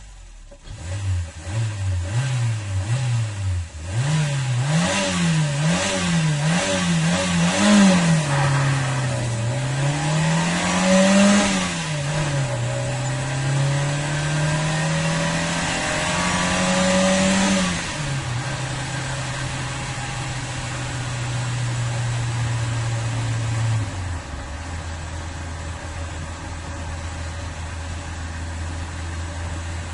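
Car engine being revved: quick short blips at first, then bigger revs rising and falling, one long climb and drop midway and a held higher rev, before it settles to a steady idle that drops to a lower idle near the end.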